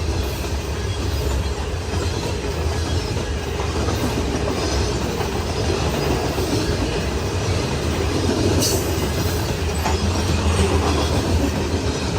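A grain train's freight cars rolling steadily past, with steel wheels running on the rails. A brief sharp high sound comes about eight and a half seconds in.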